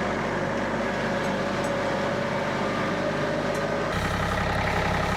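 Tractor engine running steadily; about four seconds in, its low drone abruptly gets stronger, as with a change in throttle or load.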